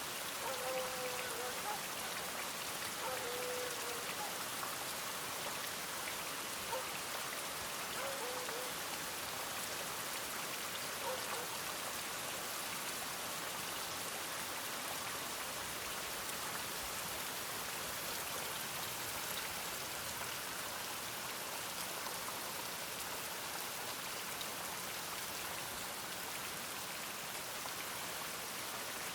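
Steady rain hiss with no let-up. Four faint, short barks of a distant dog come in the first dozen seconds.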